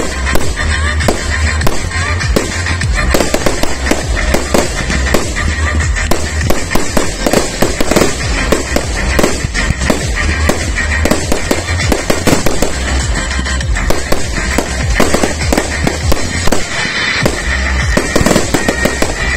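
Fireworks display: rapid, overlapping bangs and crackling of bursting shells and comets over loud music with a pulsing bass beat.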